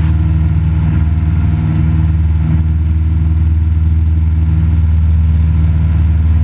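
Cessna 172 Skyhawk's piston engine and propeller droning steadily in cruise flight, heard inside the cabin.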